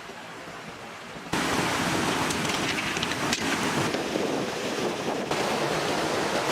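Rushing water, a steady noisy wash with a few faint clicks, jumping suddenly louder just over a second in.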